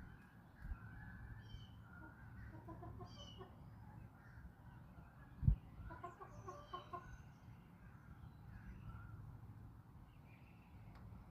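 Backyard chickens clucking, in two bouts of quick repeated calls about two and a half seconds and six seconds in, over small birds chirping. A single low thump about five and a half seconds in is the loudest sound.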